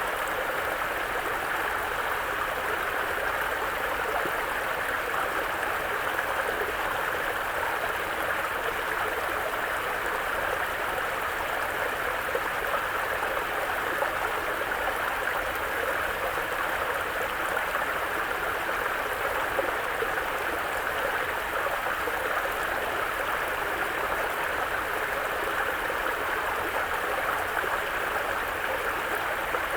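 Mountain brook flowing steadily over rocks, a continuous even rush of water.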